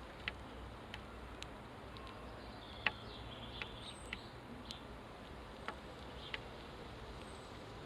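House sparrows chirping briefly, a few short high calls, among scattered sharp ticks over a faint steady low hum.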